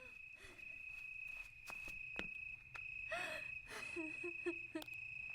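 Faint night-time outdoor ambience: a steady high-pitched insect drone with scattered sharp clicks and a few short animal calls around the middle.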